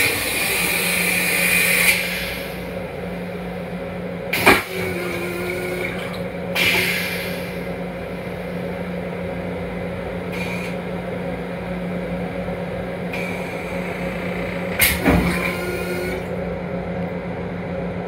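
Running noise inside a Long Island Rail Road M7 railcar: a steady low hum with brief hisses, and sharp knocks near the start, about four and a half seconds in and about fifteen seconds in.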